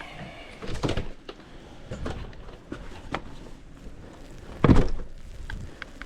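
A door being opened and handled, with scattered knocks and clicks and one loud thump a little before the end.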